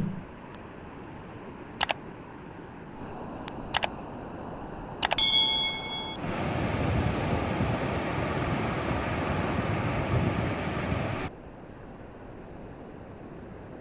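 A few sharp clicks, then a metal object clanging once and ringing briefly, followed by a steady rushing noise that cuts off suddenly about eleven seconds in.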